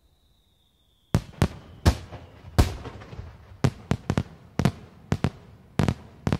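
Fireworks display, aerial shells bursting: a rapid, irregular run of about a dozen sharp bangs with echoing tails, starting about a second in. A faint whistle falls slightly in pitch before the first bang.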